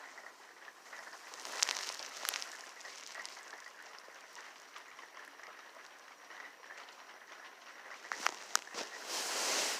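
Rain falling steadily, a hiss dotted with sharp ticks of drops striking nearby surfaces. Near the end a louder rush of noise swells up and cuts off suddenly.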